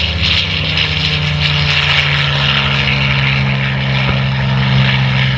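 Edge 540 aerobatic monoplane's engine and propeller running at high power: a loud, steady drone whose pitch eases down slightly over the first few seconds.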